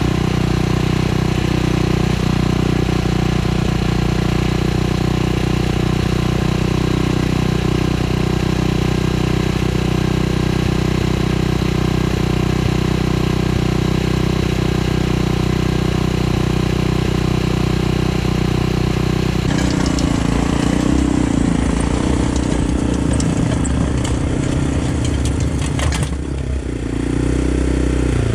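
Earthquake Pioneer rototiller's small gas engine running steadily. About two-thirds of the way through its pitch and sound change, as if under a different load or speed.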